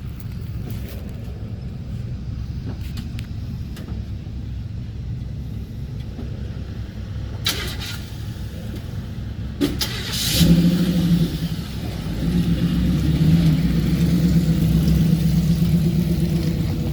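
Toyota Tacoma pickup driving a rough off-road trail: a steady low rumble with a couple of sharp knocks, then from about ten seconds in the engine pulls harder with a louder, steady hum.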